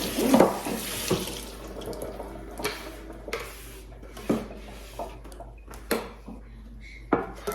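Kitchen tap running into a sink for the first two seconds or so, then going quiet, followed by a handful of short knocks and clunks.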